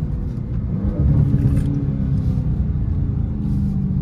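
Dodge Charger's V8 engine heard from inside the cabin, running in traffic, with a brief rise in revs about a second in. Two short rustles come near the middle and the end.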